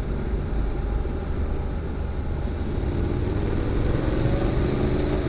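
Honda NC750X's parallel-twin engine running under way through a GPR aftermarket muffler, a steady low exhaust note that climbs a little in pitch from about three seconds in as the bike picks up speed.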